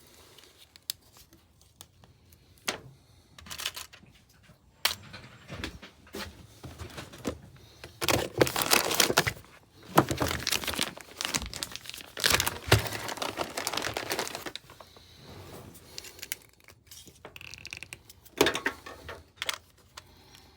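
Handling noise: bursts of crinkling and tearing with scattered clicks, loudest and most continuous for several seconds in the middle, as the handheld scope and its leads are got out and readied.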